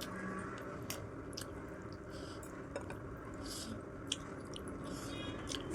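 A person chewing a mouthful of food close to the microphone, with scattered soft, wet mouth clicks.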